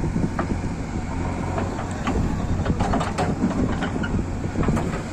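Backhoe loader's diesel engine running steadily, with scattered sharp knocks and clanks.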